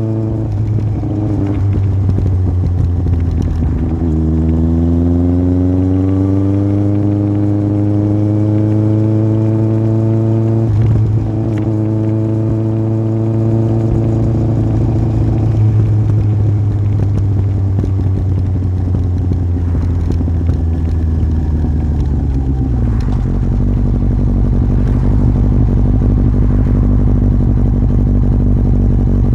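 Yamaha Fazer 1000's inline-four engine running through an aftermarket MIVV exhaust while riding. The revs climb steadily for several seconds and the note breaks briefly about eleven seconds in. It then holds a steady pitch and drops to a lower steady note near the end.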